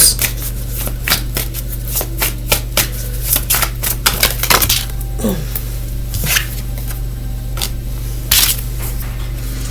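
Tarot cards being shuffled and handled: a run of irregular soft clicks and flicks over a steady low hum.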